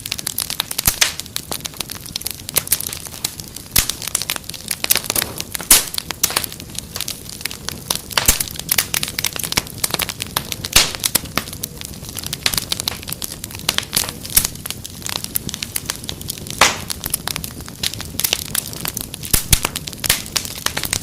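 Wood fire crackling, with dense irregular snaps and pops over a low steady hiss.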